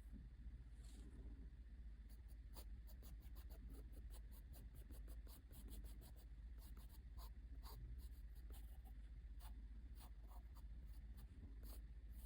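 Faint scratching of a drawing tool on paper, many quick short strokes in a row, over a steady low hum.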